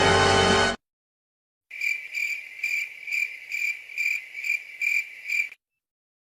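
Cricket chirping sound effect, the stock 'crickets' awkward-silence gag: a regular string of short, high chirps about two a second. It comes in after a short pause, once a music clip cuts off abruptly under a second in.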